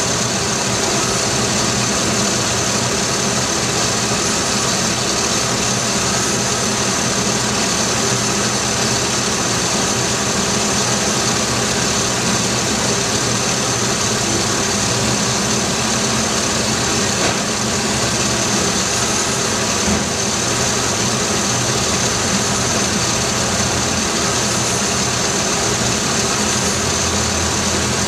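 GM 3.1 L V6 engine idling steadily.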